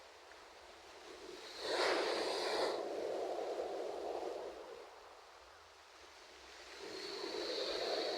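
Ocean waves washing onto a shore. One wave breaks sharply about a second and a half in and washes out over the next few seconds, and the next wave swells in near the end.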